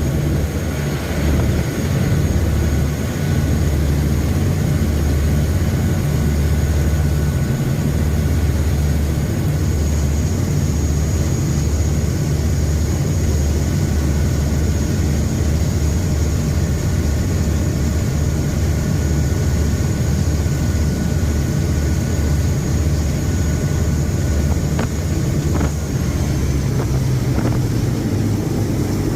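Passenger river boat's engines running steadily under way, a loud low drone heard from on board. A faint high whine sits over it for most of the time, and a couple of short knocks come near the end.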